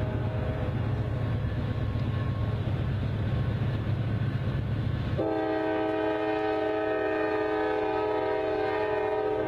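Diesel freight locomotives working close by with a deep engine rumble. About five seconds in, the locomotive horn starts suddenly, sounding a steady multi-note chord that is still blowing at the end.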